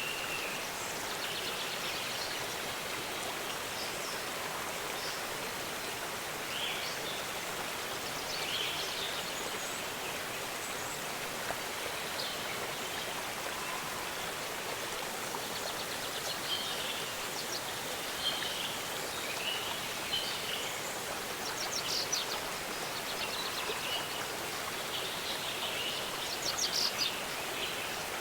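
Waterfall rushing steadily, with small birds chirping now and then above it; a couple of quick trills come a little past the middle and near the end.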